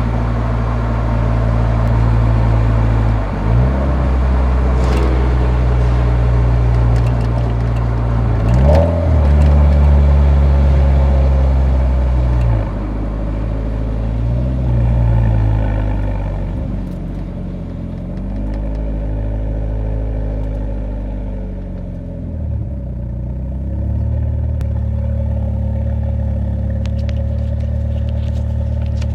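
Nissan 180SX's exhaust while driving, a steady engine note that dips and rises in pitch a few times, with a sharp jump about nine seconds in. The note rises and falls through the middle, then settles into a steady low drone.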